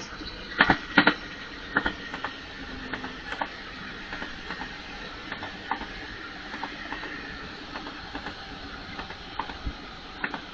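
A train running past on the tracks, with steady rolling noise and irregular sharp clicks and knocks of its wheels over rail joints and points, loudest in the first second.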